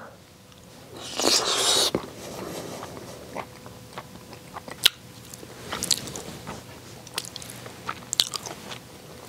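Close-up mouth sounds of chewing spicy seasoned raw crab (yangnyeom gejang): wet chewing with small crunches and crackles of crab shell, loudest for about a second near the start.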